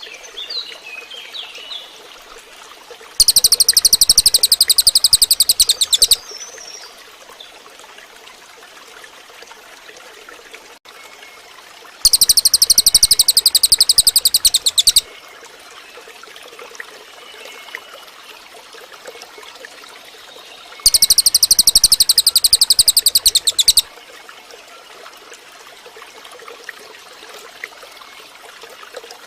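Cililin songbird singing: three loud bouts of a very fast, high, rattling trill of rapidly repeated notes, each lasting about three seconds and coming about nine seconds apart, with faint short chirps in between.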